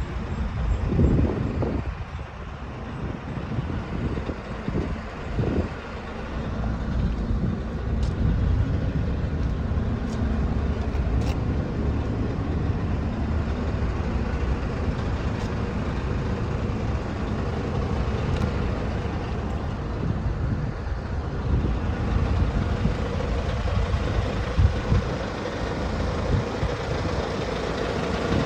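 Scania R420 truck's diesel engine running with a steady low rumble. There are a few louder, uneven surges in the first several seconds.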